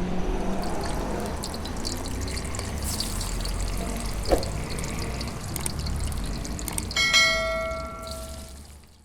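Water running steadily, with a sharp click about four seconds in and a bell-like chime near the end that rings and fades.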